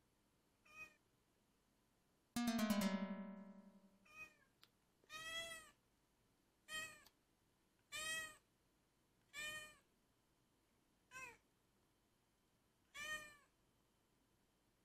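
Domestic cat meowing: a series of short meows, roughly one every one to two seconds. About two and a half seconds in, a short strummed chord rings out and fades, louder than the meows.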